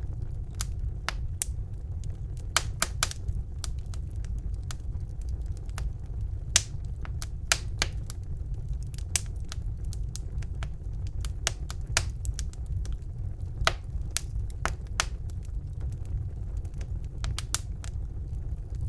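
Fire burning in a fireplace: irregular sharp crackles and pops, several a second at times, over a steady low rumble of the flames.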